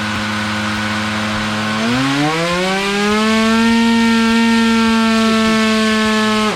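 Drone motor spinning a 3D-printed toroidal propeller, giving a loud, steady whine at low throttle. About two seconds in, it speeds up and the pitch rises smoothly to about double, then holds steady until it cuts off suddenly.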